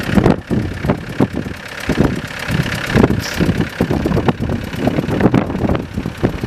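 Strong sea wind buffeting the microphone: a loud, uneven rumble that surges and drops in gusts.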